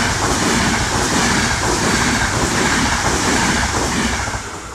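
Intercity passenger train of coaches running through the station, wheels clattering over the rails in a run of repeated thumps under a loud rushing noise. It fades away near the end as the last coach clears.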